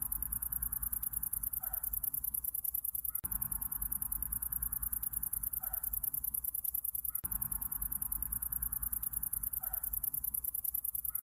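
High-pitched, rapidly pulsing insect chirping, like crickets on a summer night. Under it, a soft hiss and a short, lower call recur about every four seconds with abrupt joins, so the recording is a repeating loop.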